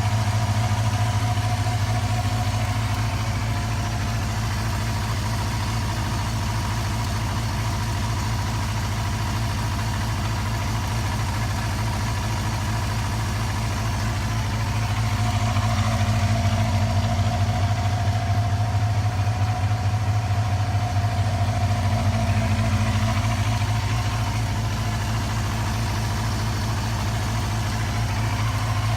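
Yamaha FZR250's four-cylinder motorcycle engine idling steadily after being started. It runs a little louder for several seconds in the middle, then settles back.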